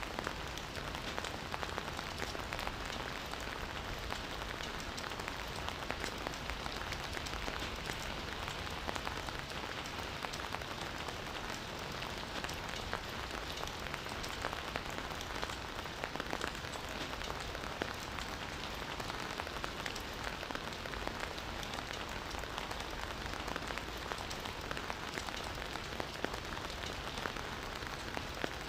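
Steady forest rain: an even hiss with many sharp drop ticks scattered through it, unchanging throughout.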